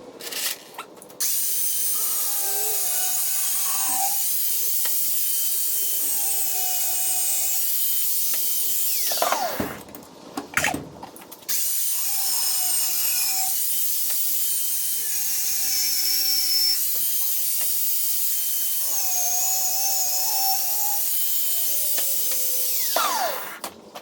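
Angle grinder cutting steel bar in two long runs, its pitch wavering as the wheel loads, with a short pause between the runs.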